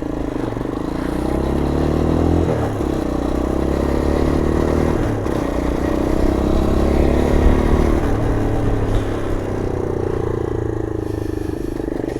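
125cc MGB ATX adventure motorcycle engine under way, pulling away. The revs climb and drop with gear changes about two and a half seconds in and again around five seconds, then the engine runs steadier at lower revs.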